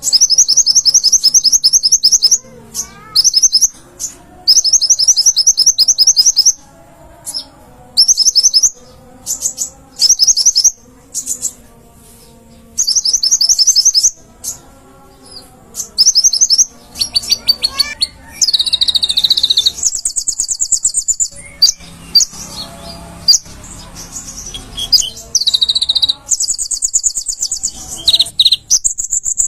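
Konin (kolibri ninja), a sunbird, singing: rapid high-pitched trilled phrases in bursts of one to two seconds with short gaps, turning to longer steady buzzing trills in the second half.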